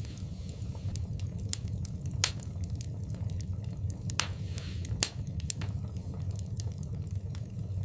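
Wood fire burning in a fireplace: irregular crackles and pops over a low steady rumble, with two sharper pops about two and five seconds in and a short hiss just after four seconds.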